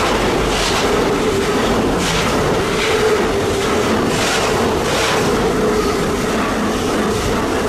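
Container freight wagons passing close at speed: steady wheel-on-rail rumble with a held ringing tone, and pairs of wheel clicks every second or so as the bogies cross the rail joints.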